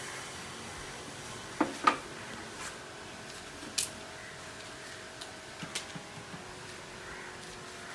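A few light clicks and knocks over a steady background hiss: two close together about a second and a half in, the loudest, another near four seconds, and fainter ticks near six seconds.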